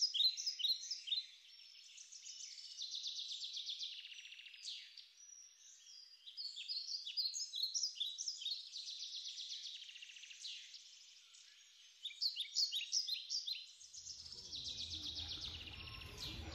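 Birds chirping and calling in trees: a busy run of short, quick notes and rapid trills. A low outdoor rumble joins near the end.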